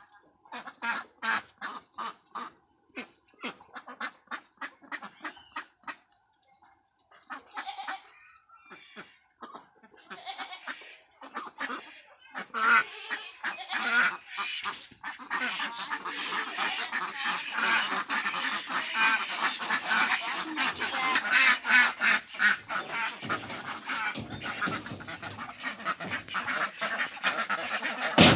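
A flock of domestic ducks quacking: scattered short calls at first, swelling from about halfway through into a dense chorus of many birds calling at once.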